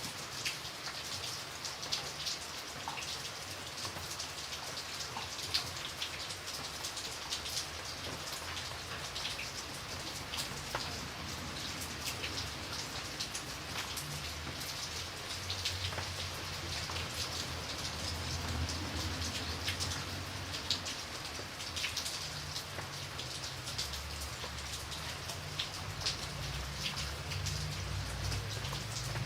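Steady rain falling on a surface, a continuous hiss with many separate drops striking. A low rumble comes in about halfway through and builds again near the end.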